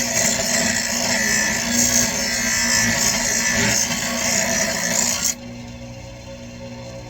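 A handheld power tool running steadily, cleaning up chainsaw parts, then cut off suddenly about five seconds in, leaving a quieter low hum.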